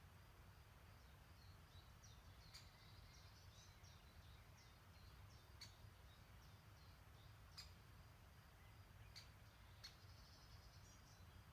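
Faint songbird chirps and twitters, with several short sharp high calls a second or two apart, over a steady low background rumble.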